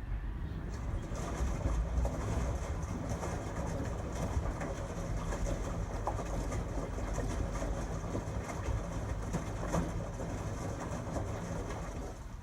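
LG Tromm WD-CR101C front-loading drum washing machine running a quick wash cycle: a steady low motor hum with light clicks and rattles from the turning drum. The sound drops off near the end.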